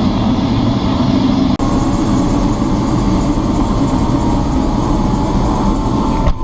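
Helicopter engine and rotor running steadily on the ground just after start-up, a loud continuous din with a steady high whine over it.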